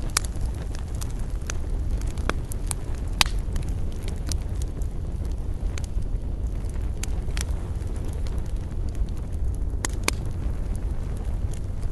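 Wood campfire crackling, with irregular sharp pops and snaps, a few louder ones among them, over a steady low rumble.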